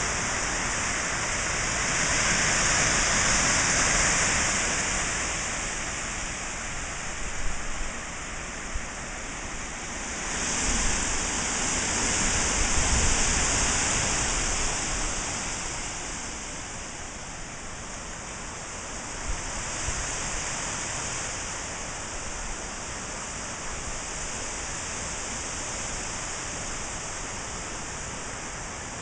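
Strong gusty wind in the aftermath of a hurricane, rising and falling in long swells, loudest a few seconds in and again about halfway through, with wind buffeting the microphone in short low thumps.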